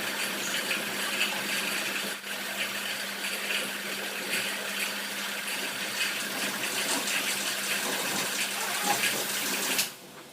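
Pressure washer spraying water in a steady hiss over a faint motor hum, cutting off suddenly near the end.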